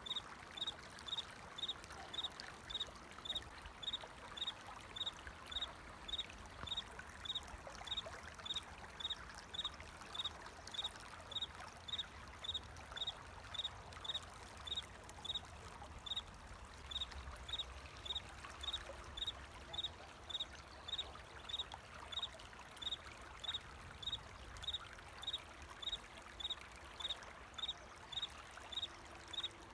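A cricket chirping steadily in an even rhythm, about three short high chirps every two seconds, over the continuous trickle of flowing water.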